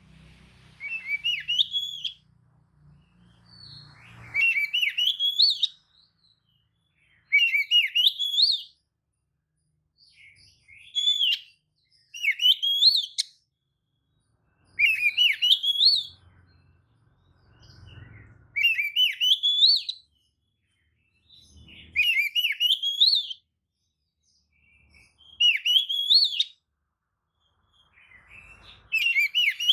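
Oriental magpie-robin (kacer) singing short, rising, warbling phrases, about one every three seconds with pauses between. It is a lure song (pancingan), meant to provoke other magpie-robins into answering.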